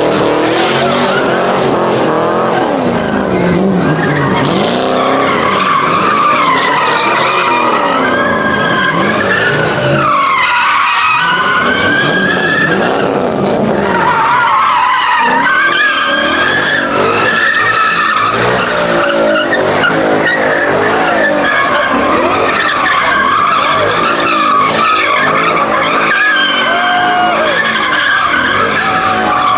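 A car doing donuts, its tyres screeching without a break while the engine revs up and down.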